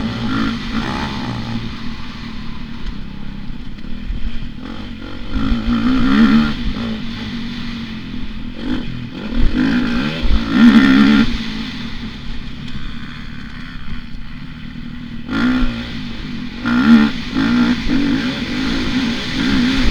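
Motocross bike engine being ridden hard, revving up and down repeatedly as the throttle opens and closes, with the loudest surges about six, ten and seventeen seconds in.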